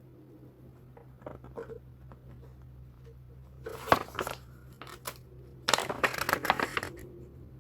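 Packaging being handled and crinkled during an unboxing: two bursts of crackling and rustling, the first starting with a sharp click and the second longer, about a second and a half later.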